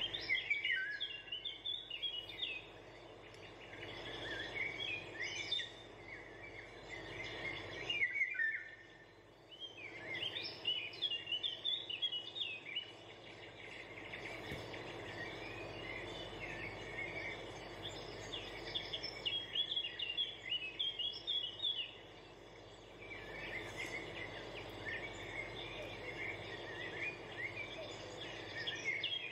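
Birds twittering in quick, high chirps, coming in several runs with short pauses, over a steady hiss.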